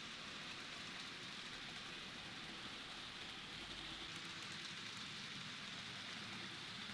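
Model train running on the layout track: a steady whirring hiss of the small electric motor and wheels on the rails.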